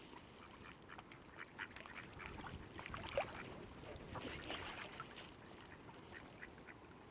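Ducks quacking: a scatter of short calls, one louder than the rest about three seconds in, over a steady low background rumble.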